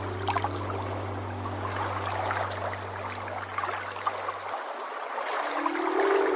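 Sea water washing and fizzing, the steady wave sound of a relaxation track, under held synth drone notes. The low drone cuts off about two-thirds of the way through, and a higher sustained chord comes in near the end.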